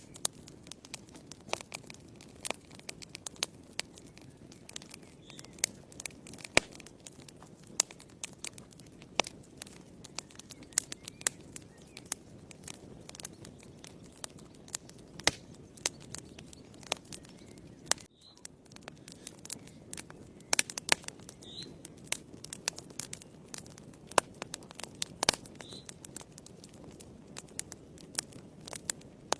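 Wood fire burning in a fireplace: a steady low rush of flames with constant irregular crackles and sharp pops of the burning logs.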